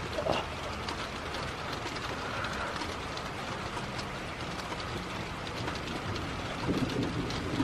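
Wind blowing steadily with light rain, a constant rushing hiss with scattered small ticks of drops.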